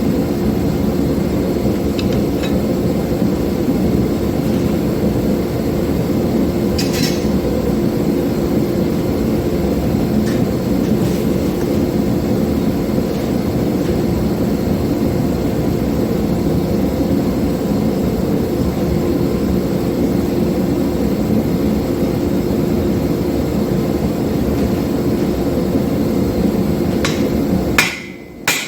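A forge running with a steady, loud rushing noise and a faint hum. It cuts off near the end, and the first sharp hammer blows on hot steel begin.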